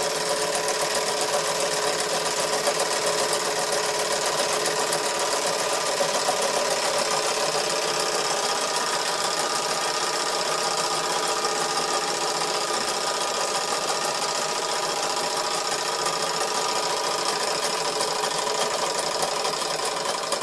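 Wilesco D141 toy steam engine running steadily, a fast even ticking chuff, with a steady whine from the line-shaft workshop models it drives.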